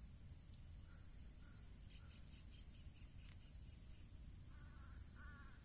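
Near silence of open farmland with faint distant bird calls: short repeated calls, a quick run of chirps about two seconds in, and louder calls near the end, over a faint steady high-pitched hum.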